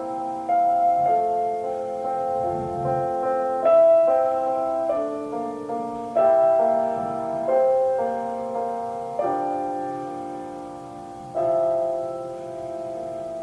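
Solo piano playing a slow, gentle classical-style melody, with chords struck every few seconds and left to ring and fade.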